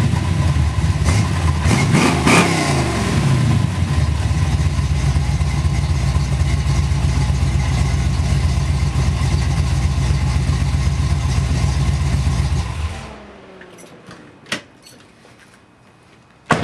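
A 1971 Chevrolet Nova's engine warming up after a cold start, blipped a couple of times in the first few seconds, then idling steadily until it is switched off about thirteen seconds in. Two sharp knocks follow near the end.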